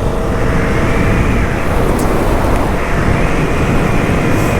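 Steady, loud road and wind rumble with a hiss, with no distinct engine note or rhythm.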